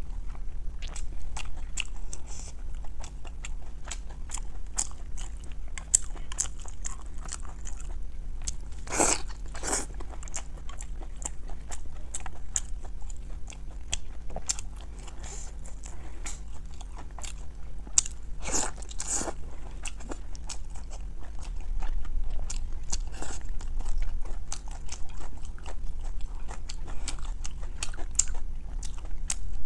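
Close-miked eating sounds: wet chewing and mouth clicks of fatty boiled meat, with two louder crunchy bites about nine and nineteen seconds in.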